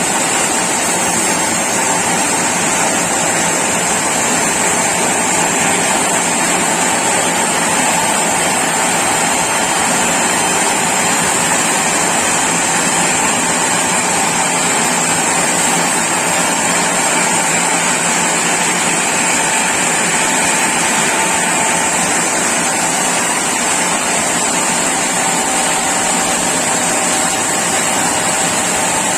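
Sawmill saw running steadily on mahogany, a constant mechanical noise with a thin high tone that does not change.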